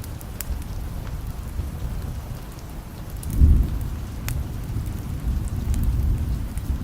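Steady rain with a low rumble of distant thunder that swells about halfway through, and a few sharp crackles scattered throughout.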